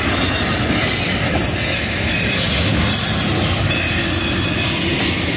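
Freight train's covered hopper cars rolling past on steel wheels over the rails, steady and loud.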